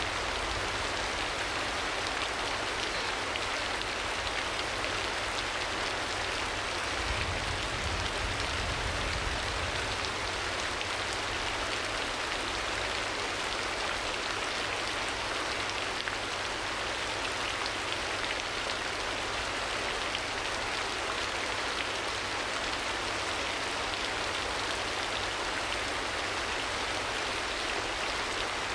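Steady rain ambience: an even hiss of rainfall with no thunder or other events.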